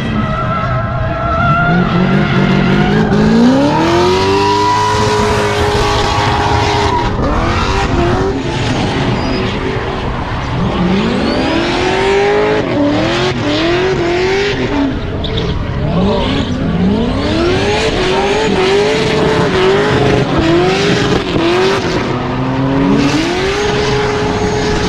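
Drift car engine revving hard: the pitch climbs again and again, holds near the top with quick repeated dips, then drops. Tyres squeal under it.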